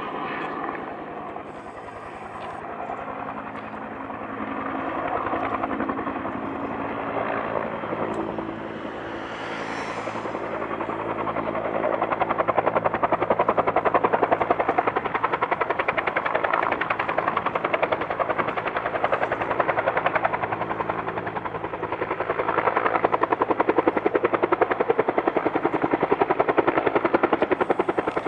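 Firefighting helicopter's rotor chopping steadily, getting clearly louder about twelve seconds in and staying loud.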